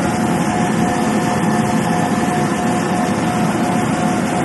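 Paint booth bake oven's burner and blower running steadily, lit and heating for the drying cycle: an even, loud rush with a steady mid-pitched hum in it.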